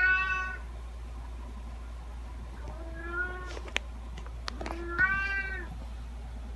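Domestic cat meowing: three separate meows, the first at the very start, the next about three seconds in and the last about five seconds in, each under a second long. A few short clicks fall between the second and third meow.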